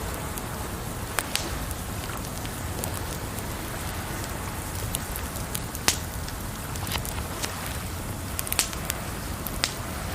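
Wood fire crackling, with a few sharp pops scattered through (the loudest about six seconds in), over a steady wash of water.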